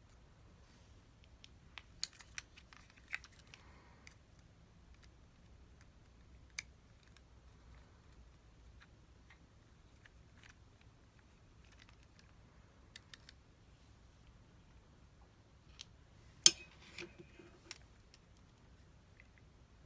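Scattered small clicks and taps of tools and small parts being handled during the rebuild of a Shimano Di2 STI shift lever, with the sharpest click about sixteen seconds in.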